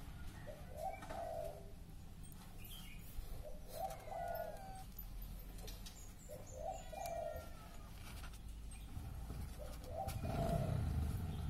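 Bird cooing in the background, a short low phrase repeated about every three seconds, with a few faint higher chirps between. A low rumbling noise rises near the end.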